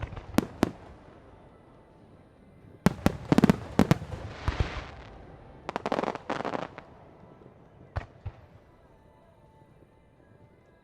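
Fireworks display: aerial shells bursting in quick clusters of sharp bangs with a rolling echo. One cluster comes about three seconds in and another about six seconds in, with a hissing crackle between them and a couple of single bangs near the end.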